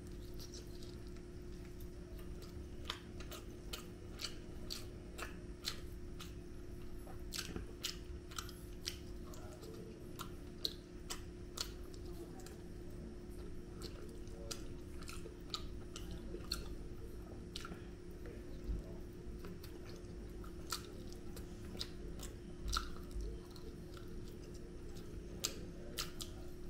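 A person chewing tandoori chicken and biryani eaten by hand, with irregular soft mouth clicks and smacks, a couple a second. A steady low hum runs underneath.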